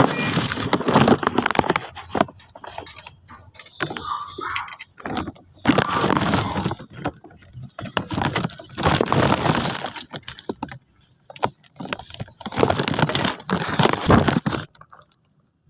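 Repeated bursts of clattering and rattling from hand tools and metal parts being handled, each burst lasting one to two seconds with short pauses between.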